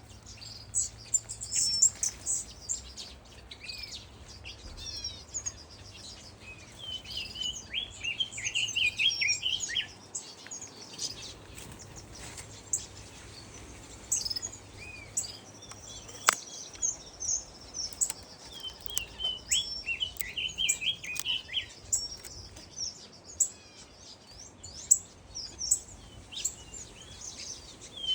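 A flock of small aviary birds chirping and calling over one another, a steady chatter of short high chirps and trills that gets busiest about eight seconds in and again about twenty seconds in. A single sharp click sounds about sixteen seconds in.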